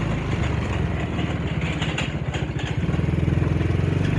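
ATV (quad) engine running at low speed, its rapid pulsing slowing about halfway through and picking up again near the end.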